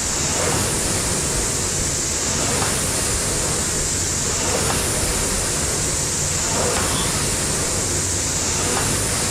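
Air-resistance rowing machine, a Concept2 clone, with its fan flywheel whooshing steadily. The whoosh swells with each stroke, about once every two seconds.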